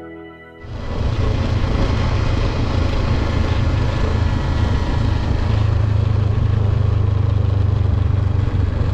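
Benelli 702 motorcycle riding at a steady speed, with its engine rumble and wind noise cutting in suddenly about half a second in and holding level throughout.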